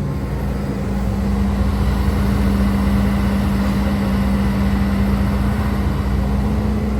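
Hidromek HMK230LC excavator's diesel engine running steadily while working, growing a little louder about a second and a half in.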